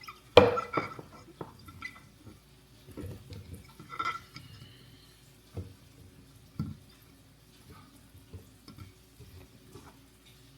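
Dishes and kitchenware being handled: a sharp clatter about half a second in, a ringing clink about four seconds in, then scattered soft knocks and clinks.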